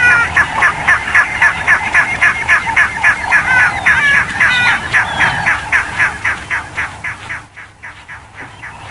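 Spotted hyena giggling: a fast, stuttering run of high calls, about five a second, that fades out about seven seconds in.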